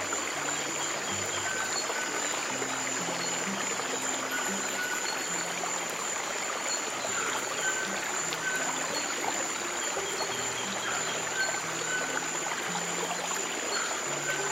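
A stream of water running steadily, with slow, soft piano notes held low underneath and a steady high-pitched tone above.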